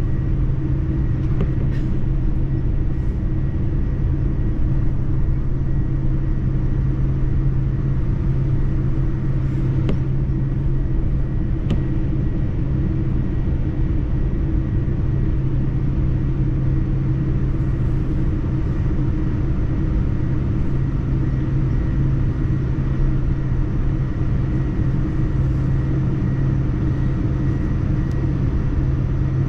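Steady low rumble of a Boeing 787-9 airliner's engines and airframe, heard from inside the passenger cabin.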